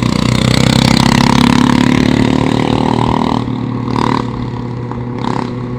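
Motorcycle engine accelerating, its pitch rising for about three seconds before settling into a steadier, quieter run.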